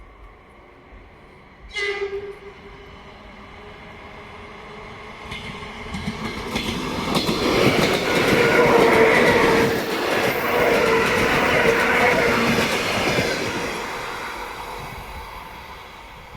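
A train gives a short horn blast about two seconds in, then passes close by: its noise builds to a loud rumble with the clatter of wheels on the rails in the middle and fades away near the end.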